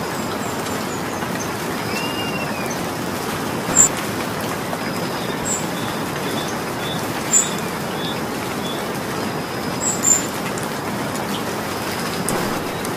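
Steady rain falling, with single louder drops striking close by three times.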